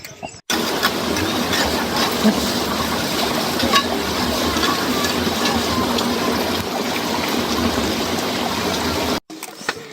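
Heavy rain falling, a steady dense hiss with many fine drop ticks, that cuts in abruptly about half a second in and stops abruptly near the end.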